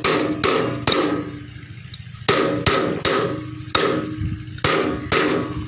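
Hammer blows on a steel tractor wheel rim, about nine sharp strikes in uneven groups, each leaving a short metallic ring. They are knocking loose the mesh guard fitted over the rim.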